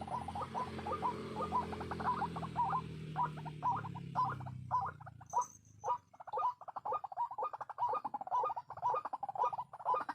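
White-breasted waterhens (ruak-ruak) calling, a fast steady series of short croaking notes at about three a second, the lure call used in trapping. A low humming rumble underneath fades away about halfway through.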